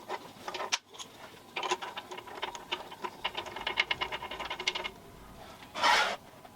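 A quick, uneven run of small clicks and rattles, like metal parts being handled and worked by hand, followed near the end by one short, louder noise.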